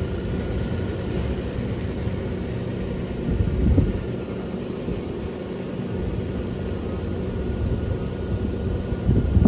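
Truck engine and road noise while driving: a steady low rumble, swelling briefly louder about three and a half seconds in and again near the end.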